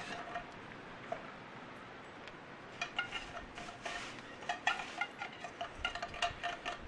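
Metal spoon clinking and scraping against a metal canteen cup as chicken is stirred into thickening gravy, the clinks coming in quick irregular runs, mostly in the second half, over a steady low hiss.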